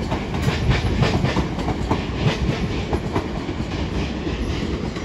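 London Northwestern Railway Class 350 electric multiple unit pulling out and rolling past, a steady rumble with a run of wheel clicks as it crosses rail joints and pointwork.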